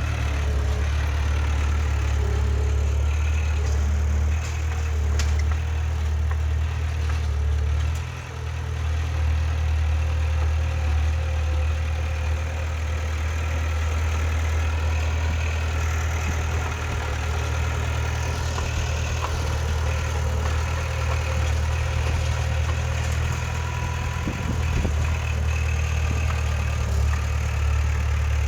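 Diesel engine of heavy earthmoving machinery (a bulldozer or dump truck) running steadily with a deep, even hum, dipping briefly about eight seconds in.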